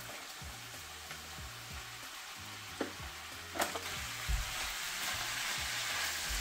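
Baby spinach sizzling in a cast-iron skillet of hot garlic butter and tomatoes while it is stirred with a wooden spatula to wilt it. The sizzle grows louder from about four seconds in, with a couple of short knocks of the spatula against the pan just before.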